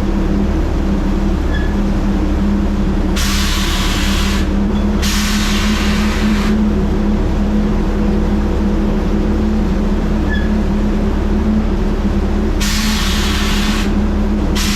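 Heavy truck's diesel engine running steadily with a low hum. Short bursts of hissing air cut in twice in quick succession about three seconds in, and twice again near the end.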